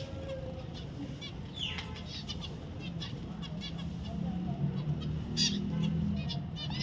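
Zebra finch calling: scattered short, nasal, high chirps with one falling call near the start. A low steady hum sits underneath from about halfway through.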